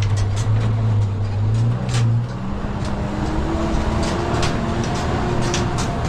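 A motor runs with a steady low hum. About two seconds in the hum changes to a higher, shifting pitch. Scattered knocks and clicks sound throughout.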